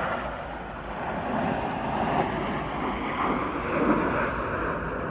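Aircraft flying past, a steady rushing engine noise.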